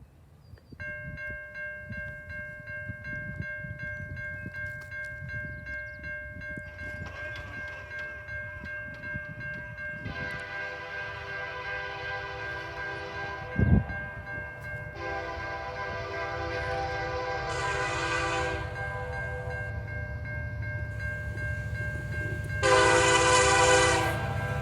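Diesel locomotive approaching and sounding its air horn: two long blasts, then a shorter, louder one near the end. Under them run a steady high tone and a low rumble that slowly grows louder, with one sharp thump partway through.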